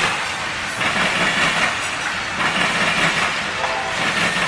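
Loaded coal hopper cars rolling past on the rail, a steady rattle and rumble of wheels with a clickety-clack over the rail joints that swells and eases as each car's trucks go by.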